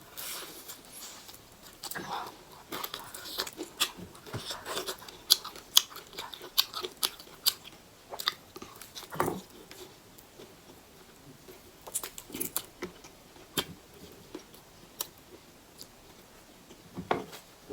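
Close-miked chewing and eating mouth sounds: irregular wet clicks and smacks.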